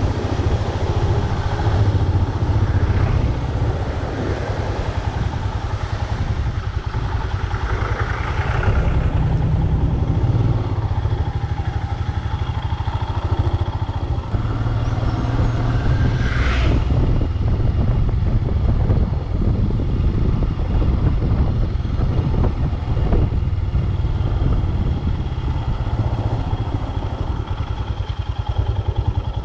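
Motorcycle engine running steadily on the move, a continuous low rumble, with a brief sharper sound about halfway through.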